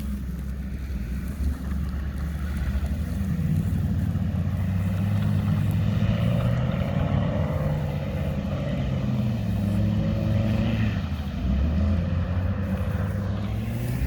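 Four-wheel-drive SUV engine running at low, gently varying revs as it crawls along.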